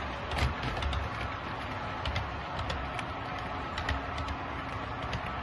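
HO scale model train running along the layout track: a steady low rumble with scattered light clicks.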